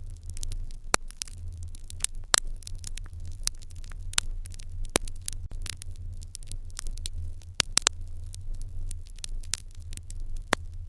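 Wood fire in an irori hearth crackling, with many irregular sharp pops over a steady low hum.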